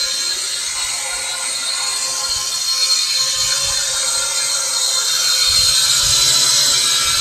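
Motors and propellers of a WLtoys Q222 toy quadcopter whirring in a steady high-pitched whine, growing a little louder past the middle.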